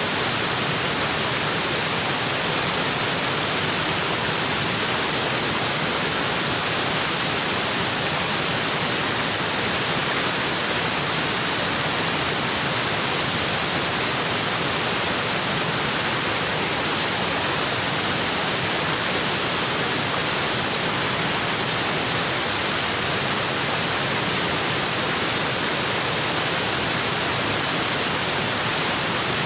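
Waterfall: water pouring over rocks in a steady, unbroken rush.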